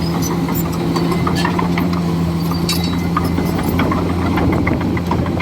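Komatsu D41E bulldozer's diesel engine running steadily, with frequent scattered clanks and clicks over it.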